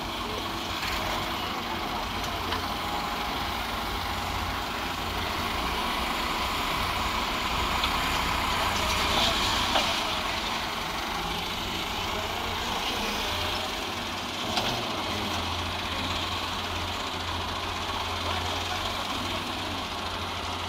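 EX100WD wheeled excavator's diesel engine running steadily, a little louder about eight to ten seconds in, with a couple of faint knocks.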